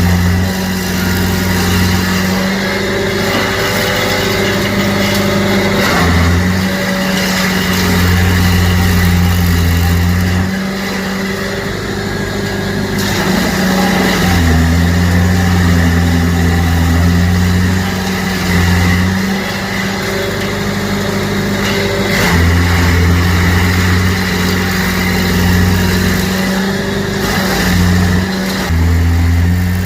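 Stump grinder's engine running hard as it grinds out a tree stump, its note shifting every few seconds as the cutting wheel works the wood.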